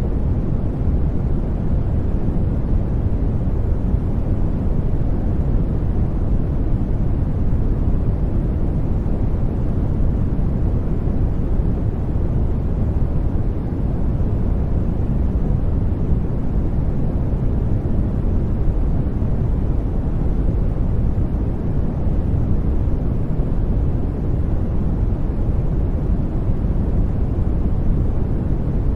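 Steady brown noise: a deep, even rumbling hiss with most of its energy in the low end, unchanging throughout.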